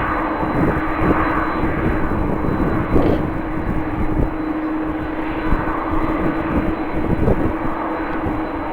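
Jet airliner engines running steadily with a constant hum, overlaid by uneven low rumbling from strong wind buffeting the microphone.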